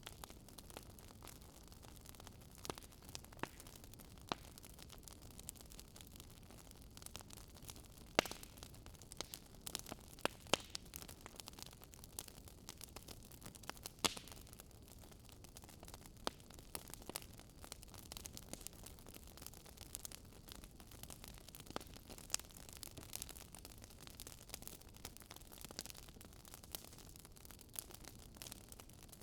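Wood fire in a fireplace crackling: irregular sharp pops and snaps over a soft steady hiss, with the loudest snaps about eight, ten and fourteen seconds in.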